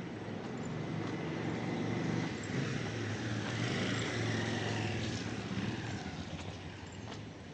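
An engine passing by: a low rumble that swells over a few seconds and then fades, with a faint falling whine as it goes past.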